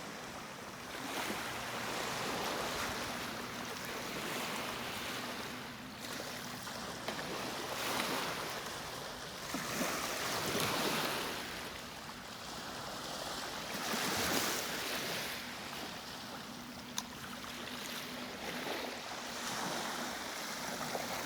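Small lake waves washing onto a sandy beach, the wash swelling and fading every second or two.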